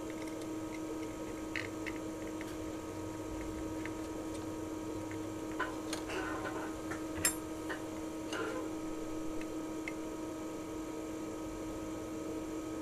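Light, scattered clicks and taps of soldering work on a transceiver's output-stage circuit board, the sharpest about seven seconds in, over a steady electrical hum.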